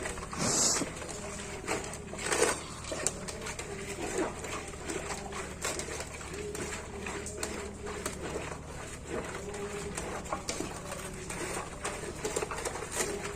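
Bitter leaf being squeezed and rubbed by hand in water, with wet squelching and sloshing, loudest about half a second in and again about two and a half seconds in. Doves coo repeatedly in the background.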